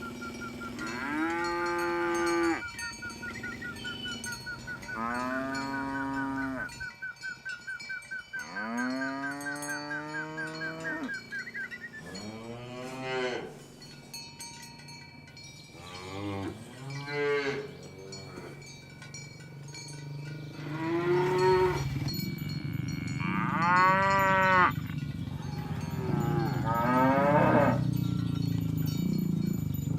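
Cattle mooing repeatedly, about eight long calls of different pitches from several cows. A thin high pulsing tone runs under the calls for the first ten seconds or so.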